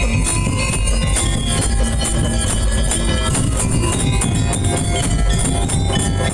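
Madurese daul music: a loud percussion ensemble with heavy drums and jingling metal percussion keeping a steady, dense beat.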